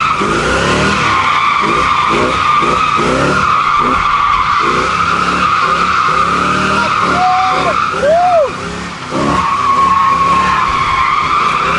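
Tires squealing steadily as a vehicle drifts, with its engine revving up again and again underneath, about once every two thirds of a second.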